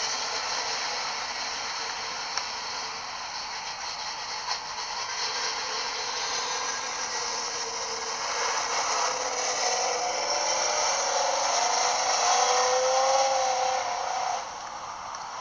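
Chevy big-block V8, a 454 bored out to 496 cubic inches, running through its custom exhaust. It revs up in the second half, holds high for a couple of seconds, then drops back off near the end.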